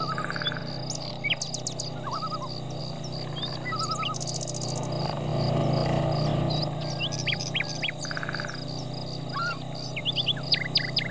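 Songbirds chirping, whistling and trilling in scattered short calls over a steady low drone, with a faint high ticking at about four ticks a second.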